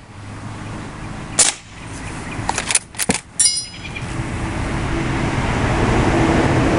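Lever-action CO2 BB rifle: a sharp shot crack about a second and a half in, a quick run of clicks as the lever is cycled, then another crack with a brief metallic ring. After that a rumbling noise with a low hum grows steadily louder.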